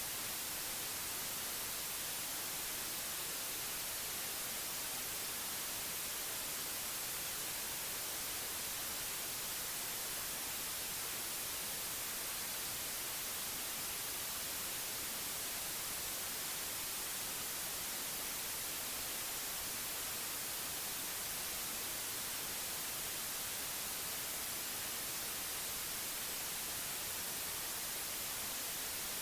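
Synthetic white noise: a steady, even hiss, brightest in the high frequencies, with no change or break.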